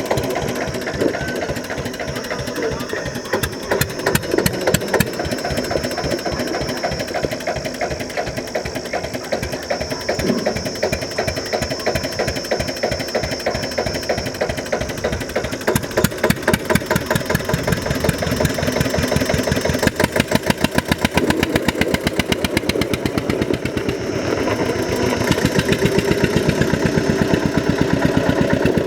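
Tractor engine running hard with a fast, even firing beat that speeds up and slows through the stunt.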